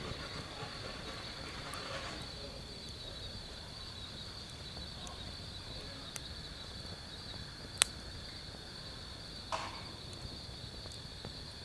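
Night insects chirring in a steady, high, unbroken drone, with a few sharp pops and cracks from wood burning in a fire pit. The loudest pop comes about eight seconds in.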